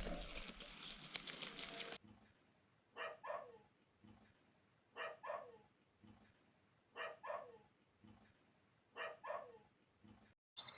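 Dog barking in pairs: four double barks about two seconds apart, each bark dropping in pitch, after a couple of seconds of noise at the start.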